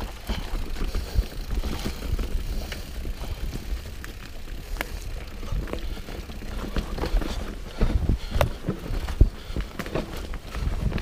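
Mountain bike rolling over rocky trail, its tyres, chain and frame rattling with irregular clicks and knocks over a low rumble of wind on the microphone.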